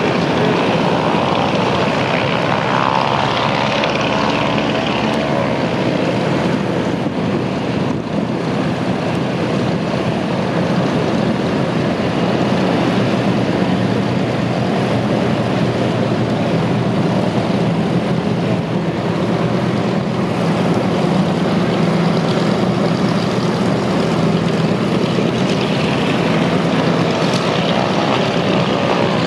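Radial piston engines of DC-3 Dakota / C-47 transport aircraft running loud and steady, with propeller drone.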